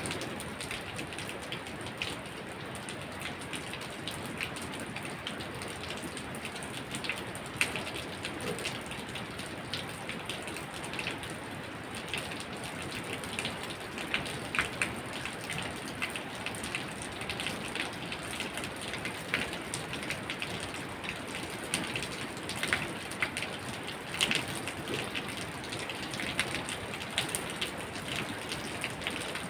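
Steady rain falling, with many separate drops ticking sharply on a hard surface over an even hiss.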